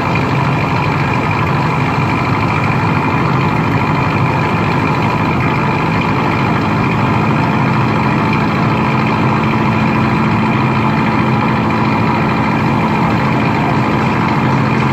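Loud engine or heavy machinery running steadily, with a low hum growing stronger about halfway through.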